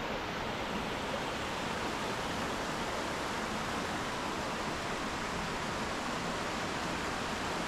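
Steady roar of the Ouzoud Waterfalls, a tall waterfall plunging into a river pool, heard as an even, unbroken rush of water.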